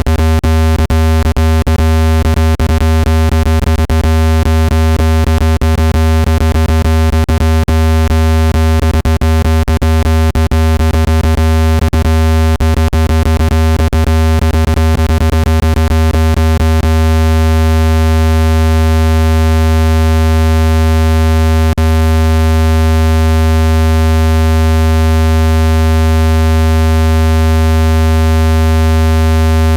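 Synthesized speaker-cleaning tone played loud: a steady low buzzing hum full of overtones, meant to shake dust out of a phone speaker. Rapid, irregular clicks break it up until a little past halfway, then the hum runs on unbroken.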